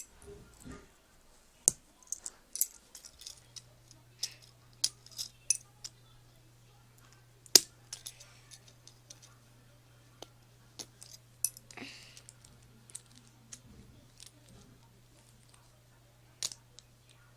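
Plastic Lego bricks clicking and snapping as they are pried apart by hand: irregular sharp clicks, the loudest about seven and a half seconds in. A faint steady low hum starts about three seconds in.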